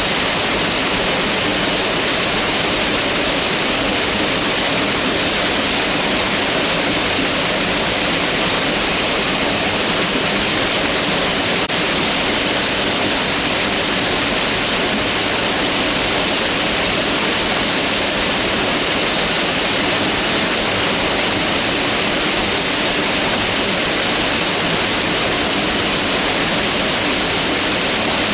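Mountain river rushing steadily over rocks, a constant full hiss of fast-flowing water.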